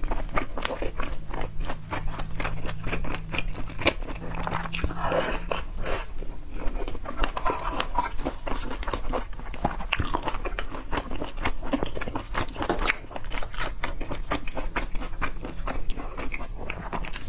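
Close-miked eating of seafood: a dense run of crunchy bites and chewing with rapid clicks, over a low steady hum in the first few seconds.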